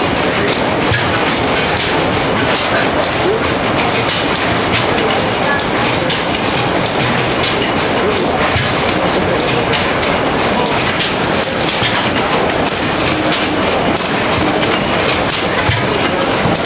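Antique stationary engine running, a loud, steady mechanical clatter of many rapid, irregular clicks and knocks.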